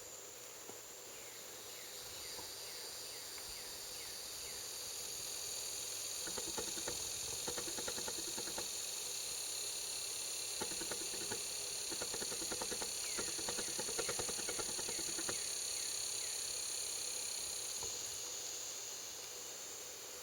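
Steady, high-pitched outdoor insect chorus, like crickets. About six seconds in and again around eleven to fifteen seconds there are runs of rapid ticking or rustling, with a few faint short bird chirps.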